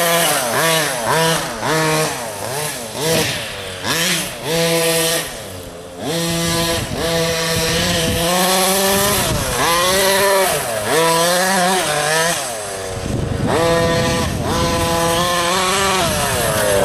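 Radio-controlled car's motor revving up and down over and over as it is driven around the track, its pitch rising and falling with each burst of throttle.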